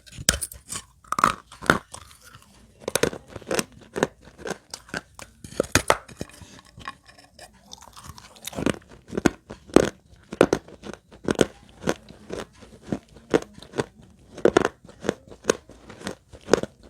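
Lightly soaked shards of baked clay pot being bitten and chewed close to the microphone: sharp, irregular crunches several times a second.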